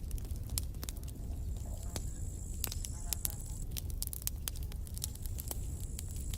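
Campfire burning: wood crackling and popping in many sharp, irregular snaps over a steady low rumble of the flames. A faint high, thin whine comes and goes.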